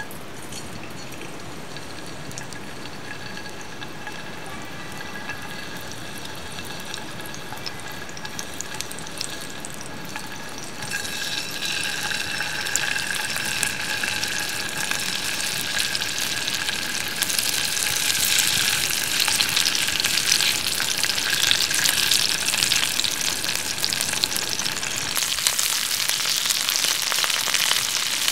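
Salmon pieces frying in hot oil in a frying pan: a steady crackling sizzle, soft at first, that grows louder about a third of the way in and again past halfway as more pieces are laid into the pan.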